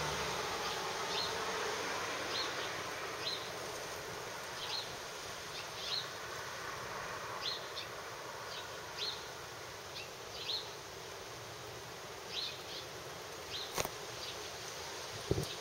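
Short high chirps from a small bird, one roughly every second at uneven spacing, over a steady outdoor hiss; a sharp click near the end.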